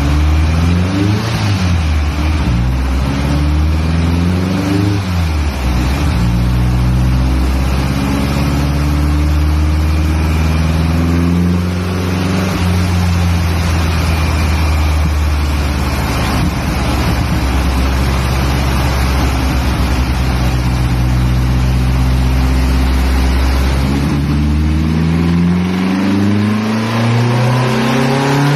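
Air-cooled VW Beetle flat-four, a 2110cc CB Performance build, running loud on a dyno. It revs up and down a couple of times at first, holds low and steady for a long stretch, then climbs steadily in revs near the end as a pull begins.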